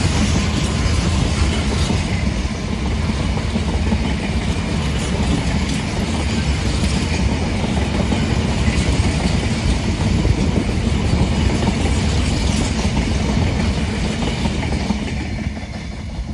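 A freight train's open box wagons rolling past at speed: a steady rumble of steel wheels running on the rails. It drops away near the end as the last wagons clear.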